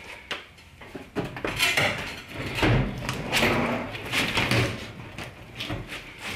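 Irregular knocks, clatter and scraping as a clothes dryer is handled and pulled out from the wall, with a few heavier thuds in the middle.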